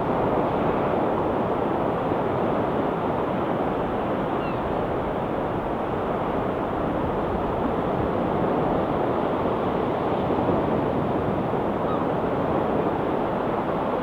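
Sea waves washing steadily on the shore, a constant even rush with no single breaker standing out.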